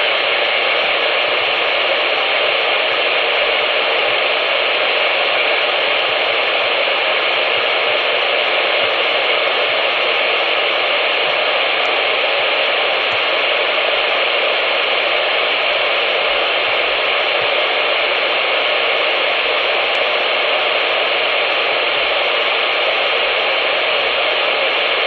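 Steady hiss of static from a CB radio receiver's speaker, with no station coming through; the band noise holds level throughout.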